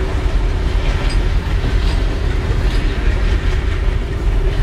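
Indian train, a steady low rumble with a steady hum over it.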